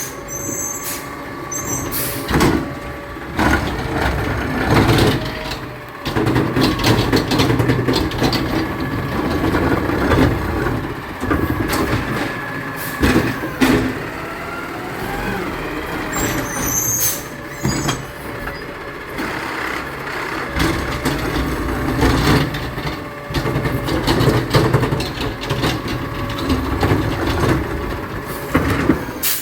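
Garbage truck's diesel engine running, with air-brake hisses near the start and about 17 seconds in, and repeated sharp clanks and bangs throughout.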